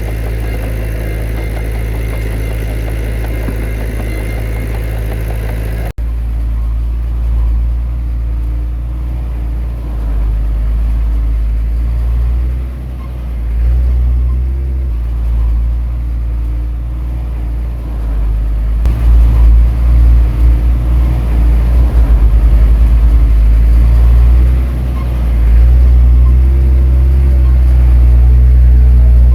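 Heavy diesel engines of earthmoving machines running and working under load, with a sudden change in the sound about six seconds in and a louder, throbbing engine in the last third.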